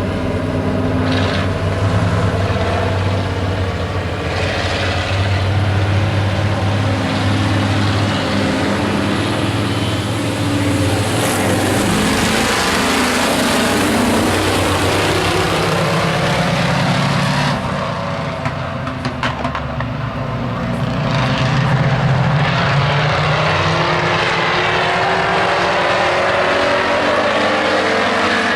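Several truck stock race vehicles' engines running on an oval track, their pitch rising and falling as they pass and accelerate, with a brief dip in loudness about eighteen seconds in.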